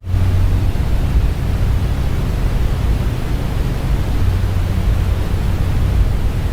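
Loud, steady low rumble with a hiss over it.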